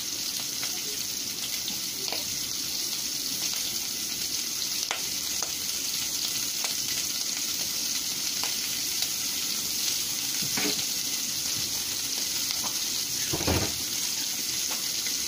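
Meat and chopped onions frying in hot oil in a pot: a steady sizzle, with a few light clicks and one louder knock near the end.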